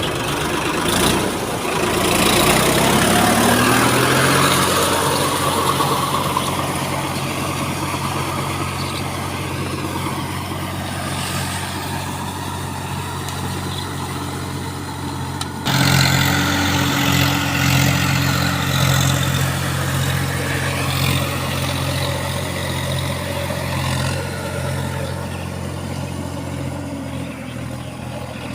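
John Deere 5310 D tractor's three-cylinder diesel engine running. Its pitch climbs in the first few seconds, then it runs steadily. About halfway through it suddenly gets louder and stays there.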